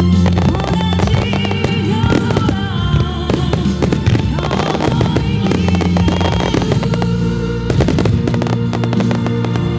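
Fireworks shells bursting and crackling many times in quick succession over loud background music: a song with a singing voice and guitar.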